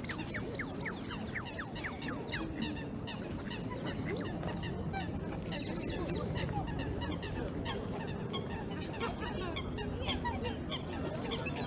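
A flock of waterbirds calling at once: many short, overlapping calls and honks, several a second throughout, over steady park background noise.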